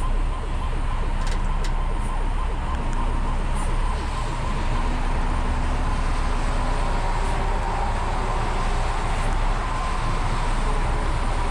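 Large vehicle engine running steadily: a constant low rumble with a steady, even whine over it.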